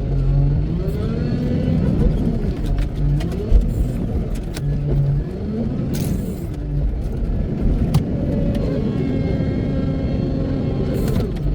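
Wheel loader's diesel engine revving up and down over and over as it works, its pitch rising and falling every second or two, with a few sharp knocks.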